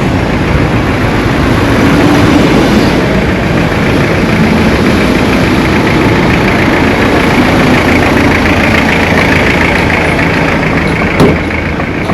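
A motor vehicle's engine running steadily, with a single sharp knock about eleven seconds in.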